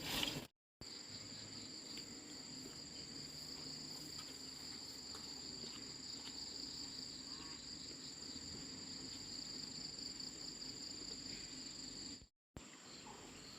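Insects chirring in a steady, high-pitched drone, with two brief breaks of total silence: one just under a second in and one near the end.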